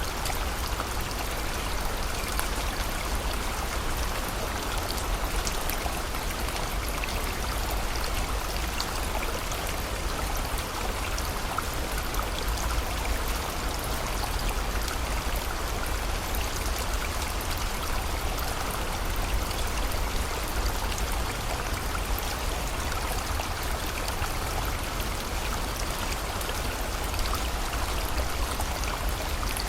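Steady rain falling together with a flowing river: a continuous even rushing with a low rumble, sprinkled with many small ticks of drops.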